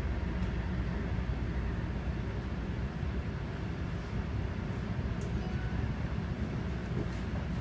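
Steady rumble of an NJ Transit passenger train running at speed, heard from inside the coach, with a few faint clicks.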